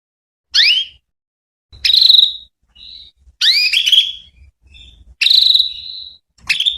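Female canary calling: about five short, sharp rising chirps, some running into a brief buzzy trill, with silent gaps between.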